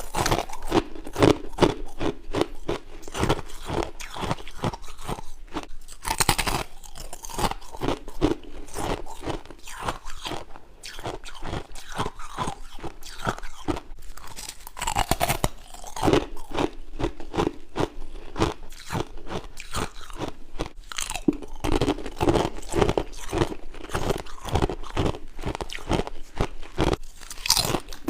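Someone chewing frost and ice close to the microphone: a steady run of crisp crunches, a few a second, with a few louder bites spread through.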